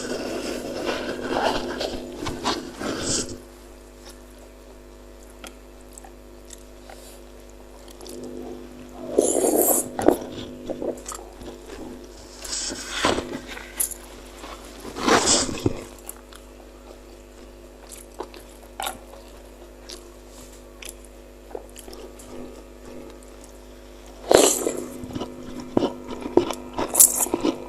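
Close-miked eating of bakso meatballs: bursts of biting and chewing every few seconds, over a faint steady hum.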